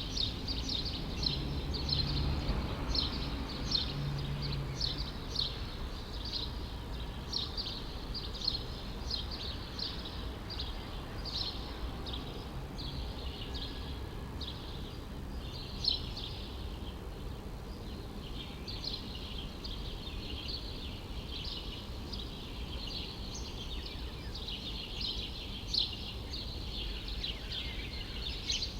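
Many small birds chirping in quick, overlapping short calls without a break, over a steady low hum of distant city traffic.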